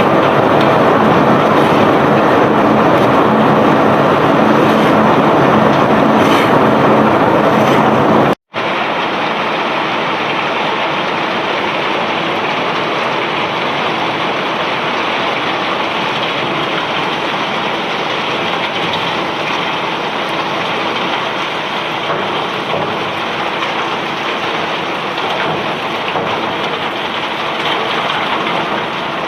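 Self-unloading barge discharging bulk rock and ore: a steady rush of machinery and pouring material with an engine hum under it. It cuts off abruptly about eight seconds in and resumes as a similar, slightly quieter rush.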